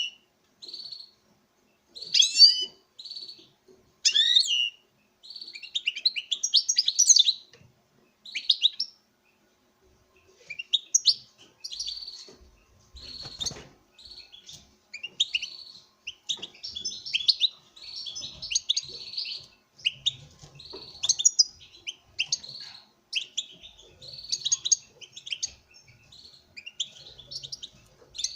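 Male European goldfinch singing in breeding excitement to a female: bursts of quick, jumbled twittering phrases with short pauses between them. A single brief knock about halfway through.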